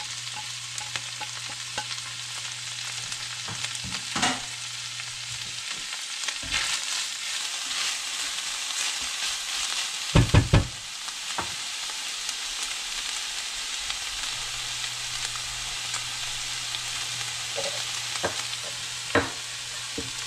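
Flaked halibut and onion frying in hot oil in an enameled cast-iron pan: a steady sizzling hiss. A spatula stirring the fish knocks against the pan a few times, loudest a little after halfway.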